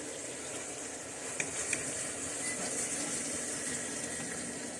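Steady kitchen hiss over a low hum, with two small clicks about a second and a half in.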